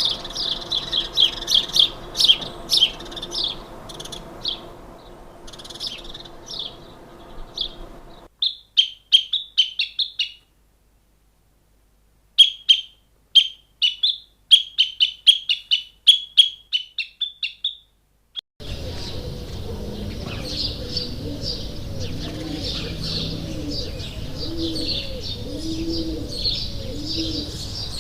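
Small birds chirping in quick series of high, short notes. The sound drops out to silence for about two seconds a little before the middle, then the chirping resumes. About two-thirds of the way in, a different recording starts, with a steady background hiss and low, evenly repeated cooing calls beneath the chirps.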